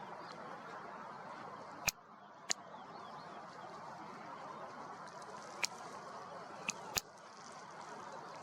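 Steady rushing of a river running high, with faint bird chirps above it, broken by a few sharp clicks.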